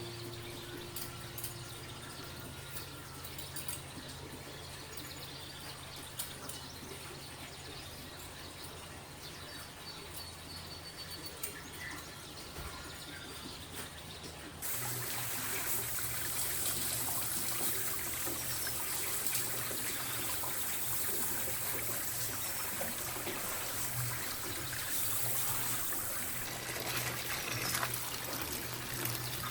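Water starts running suddenly about halfway through and keeps flowing steadily, over a low steady hum.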